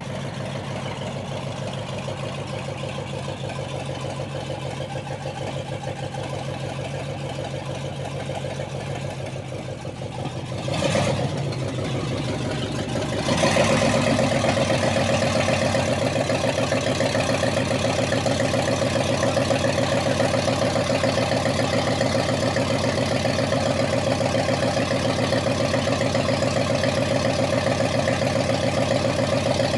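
1965 Buick LeSabre's V8 engine running at idle, with a short rise about 11 seconds in, then a louder, steady run from about 13 seconds in.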